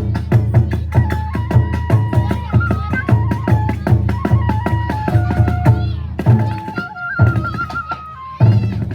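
Kagura hayashi: a bamboo transverse flute playing a held, stepping melody over fast, steady drum strokes. Past the middle the drumming drops away for a couple of seconds while the flute carries on, then the drums come back in strongly near the end.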